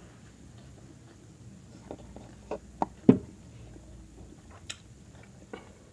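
Eating sounds close to the microphone: a handful of short clicks and wet smacks from chewing and utensils, the loudest about three seconds in.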